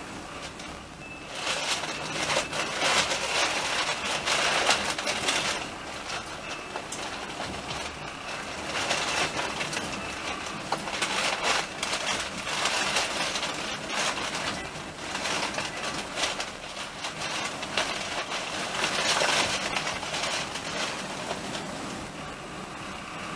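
Train running along the track, heard from a carriage window: a rushing, rattling wheel-and-rail noise that swells louder in stretches and eases off again.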